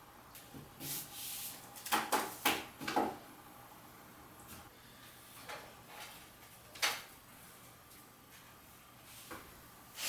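A few scattered knocks and clatters of things being handled and set down, the loudest cluster about two to three seconds in and another sharp knock near seven seconds, over quiet room tone.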